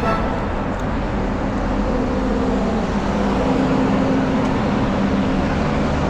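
Road traffic passing, with a steady engine hum that swells slightly around the middle.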